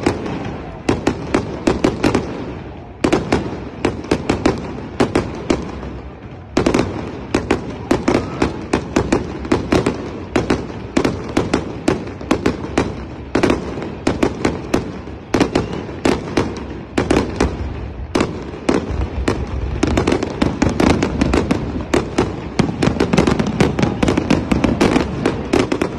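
Fireworks display: a dense, rapid barrage of bangs and crackles from aerial shells, several a second and almost without pause.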